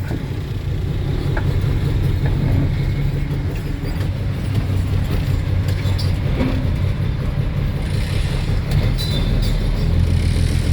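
Loaded heavy truck's diesel engine running steadily as the truck pulls away, heard from inside the cab; the low engine drone deepens and grows stronger near the end.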